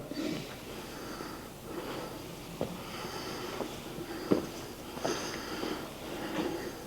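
Quiet indoor room tone with a few soft sniffs or breaths close to the microphone and a couple of faint clicks.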